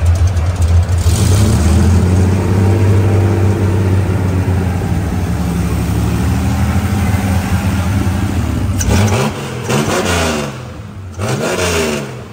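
Chevrolet Opala engine running steadily, then revved twice near the end, its pitch rising and falling with each rev.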